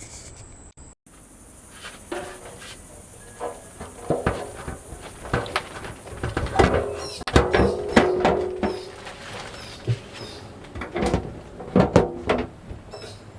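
Hands fitting a rubber sunroof seal into a VW Beetle's sunroof opening: irregular knocks, taps and handling sounds, busiest in the middle and again near the end.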